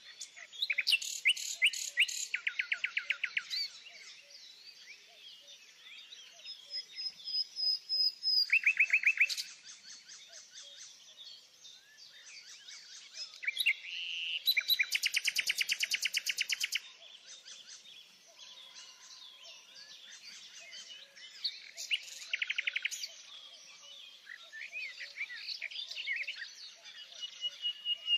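Songbirds singing: loud, rapid trills lasting one to three seconds come every few seconds, about five times, over softer chirping that never stops, with a thin steady whistle near the end.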